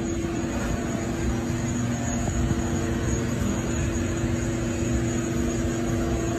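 A vehicle running at steady speed: a constant hum of several fixed tones over a low rumble, with no change in pitch.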